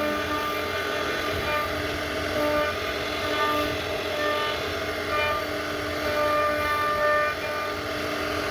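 CNC router spindle running and carving wood: a steady pitched whine over cutting noise, its tone swelling and fading as the bit's load changes.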